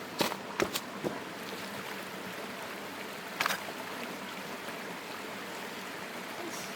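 Mountain headwater stream running steadily, with a few sharp knocks and clacks in the first second and one more about three and a half seconds in.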